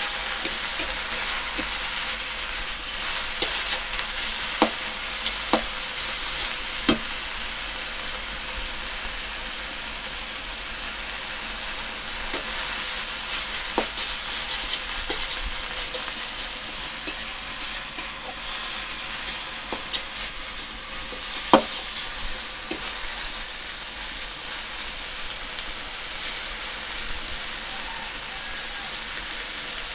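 Saag (leafy greens) sizzling as it fries in a metal kadai while being stirred with a spatula, a steady hiss with occasional sharp clicks of the spatula against the pan, the loudest about two-thirds of the way through.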